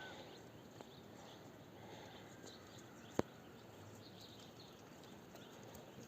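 Faint outdoor background with one sharp knock about three seconds in and a fainter click near the start.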